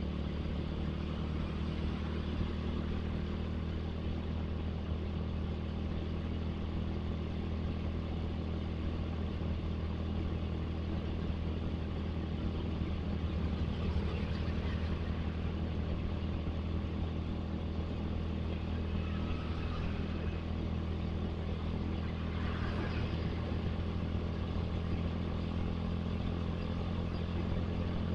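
Suzuki Satria FU motorcycle engine running steadily at cruising speed, heard from the rider's position along with road and traffic noise, with other vehicles passing.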